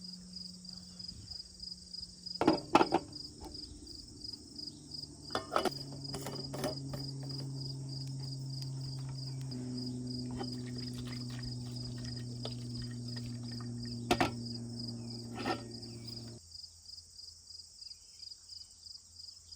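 Crickets chirping in a steady fast pulse, joined by a low steady hum that shifts pitch in a few steps and cuts off suddenly about sixteen seconds in. A few sharp knocks come in between, the loudest near three seconds in.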